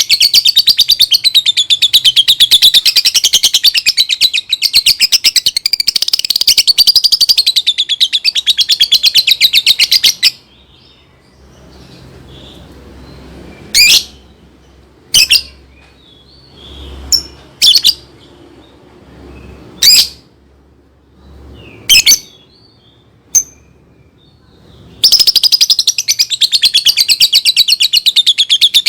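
Lovebird chattering in a long, very rapid, high-pitched trill that breaks off suddenly about a third of the way in. Several separate sharp chirps follow a second or two apart, and the fast chatter starts again near the end.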